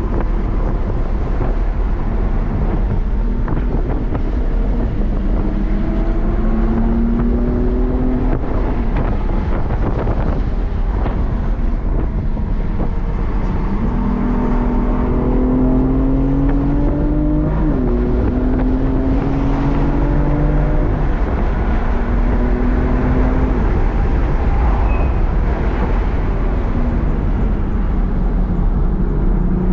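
BMW M4 Competition's twin-turbo inline-six heard from inside the cabin, its revs climbing in long pulls and dropping back again and again as the car is driven hard. A loud, steady rush of road and wind noise runs underneath.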